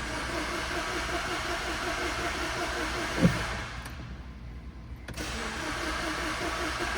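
A 2013 Mini Cooper's 1.6-litre four-cylinder engine is being cranked on the starter with an even pulsing beat of about six a second. A sharp click comes a little past a third of the way in. The cranking stops for about a second, then starts again.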